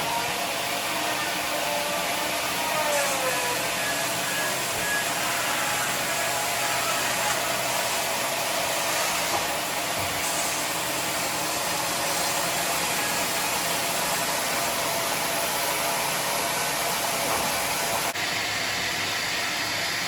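Sawmill band saw machinery running steadily, a continuous mechanical whirring noise, with an abrupt change in the sound near the end.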